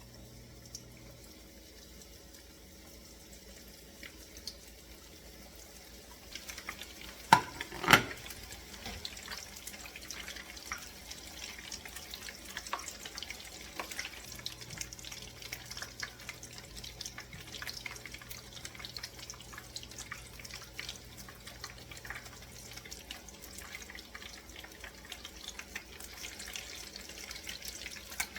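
Breaded oysters frying in about half an inch of hot cooking oil: a steady crackling sizzle with many small pops that starts about six seconds in. Two loud sharp knocks come just after it starts.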